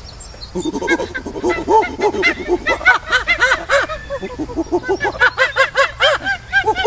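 Animals calling: many short, overlapping calls that each rise and fall in pitch, starting about half a second in.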